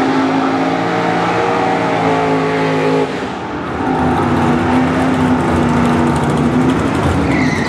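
Engines of two drag-racing vehicles, a car and a pickup truck, running hard as they accelerate side by side down a drag strip: a loud, steady drone of engine notes. About three seconds in the sound dips briefly and settles at a different pitch.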